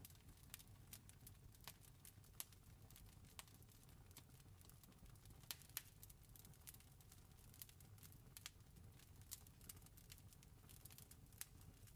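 Campfire crackling faintly: irregular snaps and pops, a few louder ones standing out, over a low steady rumble.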